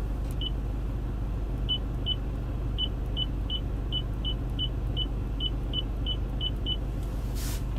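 Short high beeps from the Toyota Land Cruiser Prado's navigation screen as its controls are pressed: about fourteen in quick, uneven succession, over a steady low cabin hum. A brief hiss comes near the end.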